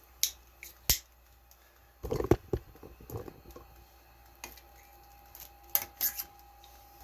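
Handling noises from unpacking cardboard packaging: a few sharp clicks and taps, with a cluster of knocks and rustling about two seconds in and again near six seconds.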